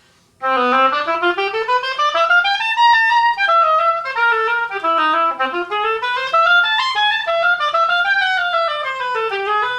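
Oboe playing a single melodic line. The notes step up and down in a flowing phrase, starting about half a second in.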